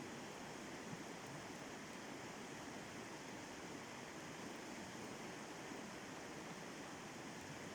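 Steady rushing of river water over a rapid, faint and even throughout.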